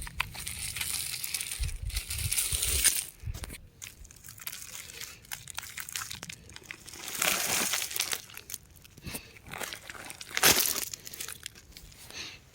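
Rock crumbling and crunching in irregular crackly bursts, densest in the first three seconds, with a sharp loud burst about ten and a half seconds in.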